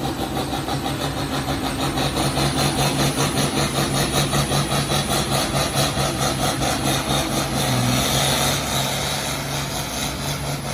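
Farm tractor engine running hard with a steady, rapid pulse while pulling the weight sled down the track.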